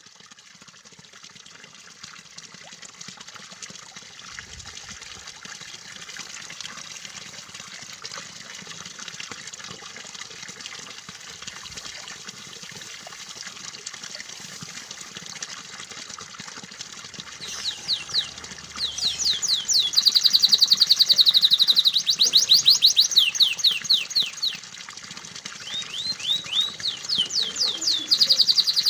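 Steady running water trickling. About two-thirds of the way in, a domestic canary breaks into loud, fast repeated trills over it, pausing briefly and resuming near the end.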